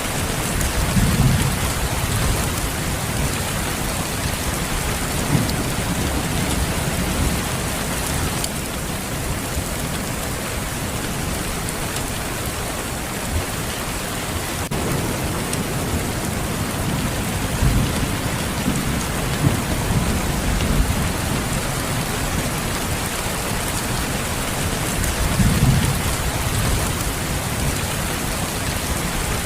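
Steady rain, an even hiss of drops on surfaces, with several low rolls of distant thunder swelling and fading through it.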